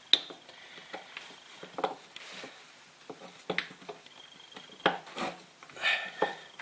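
Scattered clicks and clinks of small metal tools and parts being handled while a throttle body is taken apart, a few with a short metallic ring.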